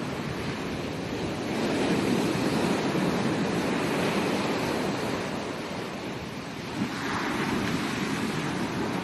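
Ocean surf breaking and washing up a beach. The rush of water swells about a second and a half in, and a fresh wave breaks and washes in again shortly before the end.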